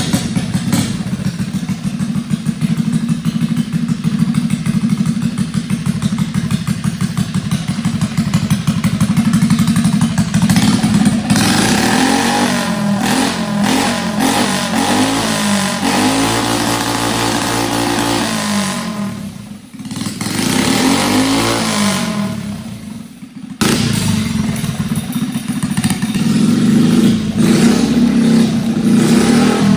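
Small motorbike engine running, revving up and down in the middle with two brief drops in level.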